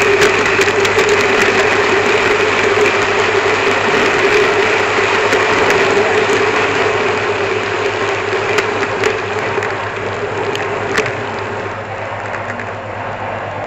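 N gauge model train running along the track, heard from a camera car riding on it: a steady mechanical whirr with a held tone and scattered sharp clicks, growing quieter in the second half.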